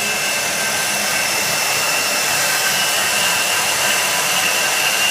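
A power tool motor running steadily at full speed: a loud, even hissing rush with a fixed high-pitched whine.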